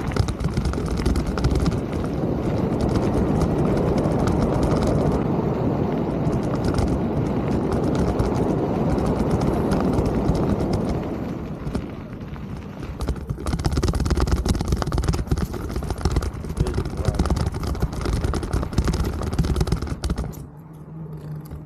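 Mountain bike ridden over a rough trail: a steady rush of wind and tyre noise with the bike rattling and knocking over bumps, more rattly in the second half, falling away sharply near the end.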